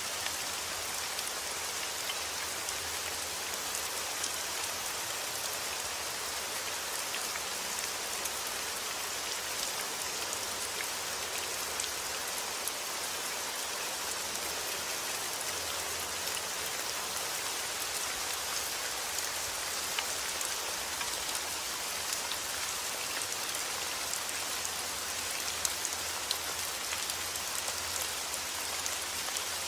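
Heavy rain falling steadily outdoors, a constant hiss with many small drop impacts pattering on surfaces.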